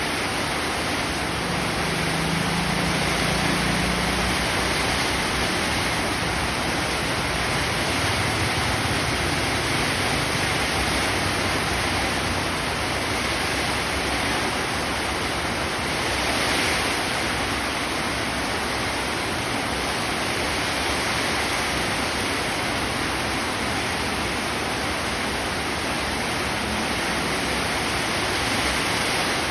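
Heavy rain pouring down steadily in a windy storm, a dense even hiss that swells briefly about halfway through.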